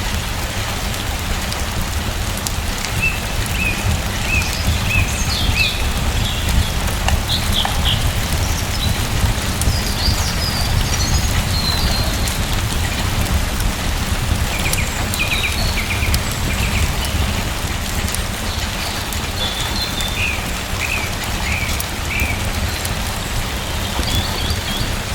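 Steady rain falling, a dense even hiss over a deep rumble, with small birds chirping in short runs several times through it.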